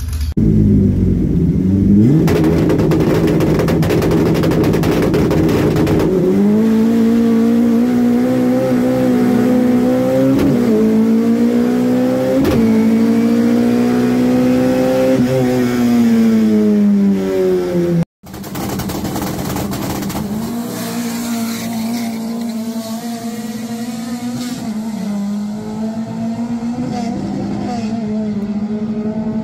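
Chevrolet Celta's four-cylinder eight-valve engine, enlarged from 1.4 to 1.8 litres and running on methanol with individual throttle bodies, at full throttle on a drag run. The note climbs through the gears with a drop in pitch at each upshift, about 10 and 12 seconds in, then eases off. After an abrupt cut about 18 seconds in, an engine is heard again at a steadier pitch.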